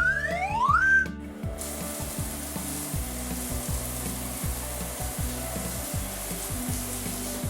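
Cartoon sound effects over background music with a steady beat: two quick rising whistle glides, then from about a second and a half in a steady hiss of water spraying from a car-wash nozzle.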